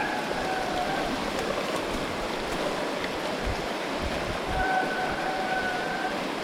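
Steady rushing noise of heavy rain. A thin steady tone drops out early on and returns about four and a half seconds in.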